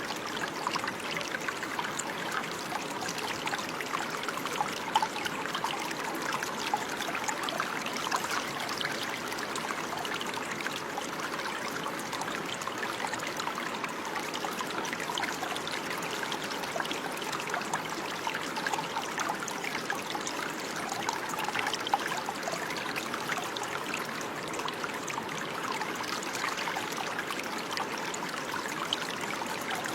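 Running water: a steady, bubbling trickle of a small stream flowing over stones.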